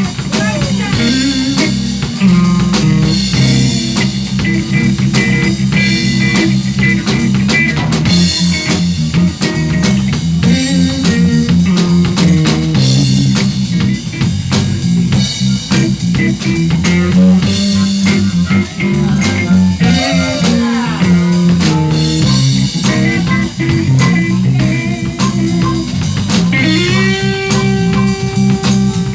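Live blues band playing an instrumental passage: electric guitar with bent notes over a bass line and drum kit.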